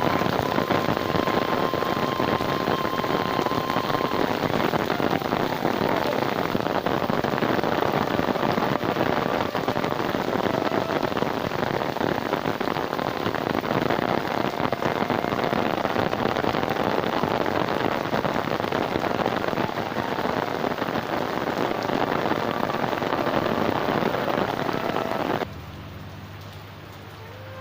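Heavy monsoon rain pouring down in big drops, a dense steady hiss. It cuts off abruptly near the end.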